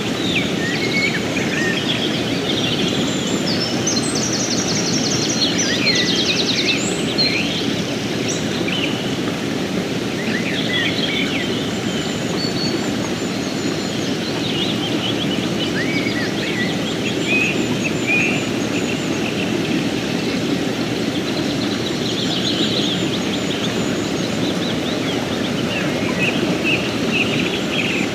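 Steady rush of flowing river water, with small birds chirping over it; a fast trill of rapidly repeated notes comes about four seconds in.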